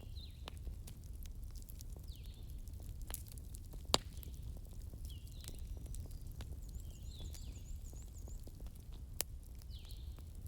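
Wood fire crackling in a fireplace over a steady low rumble, with scattered small pops and two louder snaps, about four seconds in and near the end. Faint short high chirps repeat every second or two.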